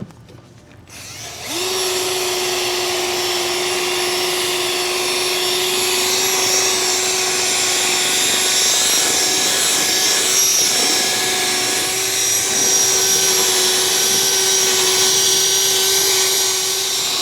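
Electric drill spinning a polishing attachment against a truck wheel, buffing off oxidation. It starts about a second in, winds up quickly, then runs at one steady pitch with a whine.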